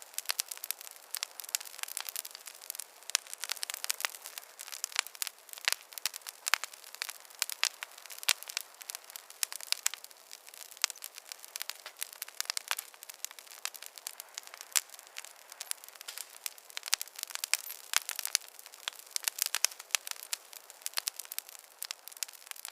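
Wood fire crackling: a dense, irregular stream of small pops and snaps, thin and bright with no low rumble.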